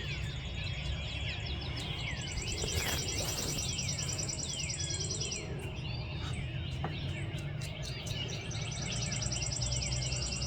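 Morning dawn chorus: many songbirds singing at once, with lots of short downward-sliding whistles. A fast, high, evenly pulsed trill runs for a few seconds, stops about halfway through and starts again near the end. A steady low rumble lies underneath.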